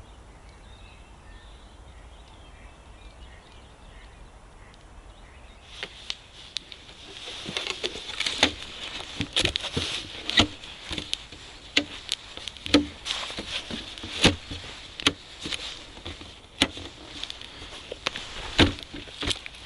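Faint birdsong at first. Then, about six seconds in, a wood campfire crackles close by, with irregular sharp pops and snaps over a steady hiss.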